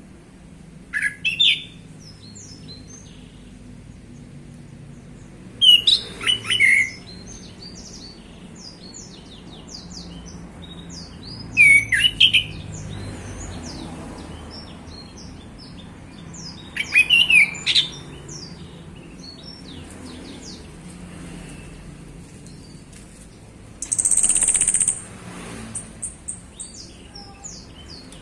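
Male orange-headed thrush singing: five loud phrases of quick sweeping notes, about one every five or six seconds, the last a high, held note. Softer short chirps fill the gaps between phrases.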